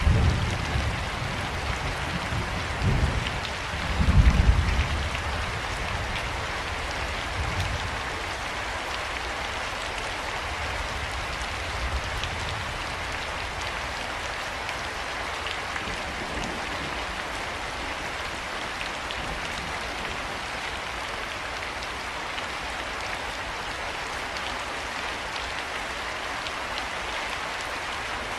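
Steady heavy rain falling, an even hiss throughout. Low thunder rumbles through the first several seconds, swelling twice, then dies away.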